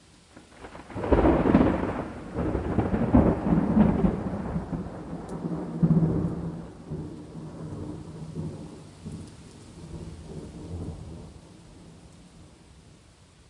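A peal of thunder breaks about a second in, with a sharp crack, then rolls on in several rumbling swells that fade away over about ten seconds. Steady rain falls throughout.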